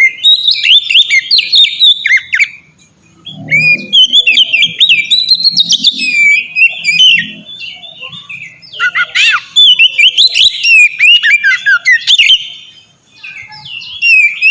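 Oriental magpie-robin (kacer) singing a loud, varied song of rapid whistled notes and quick sweeping phrases, in several bouts broken by short pauses.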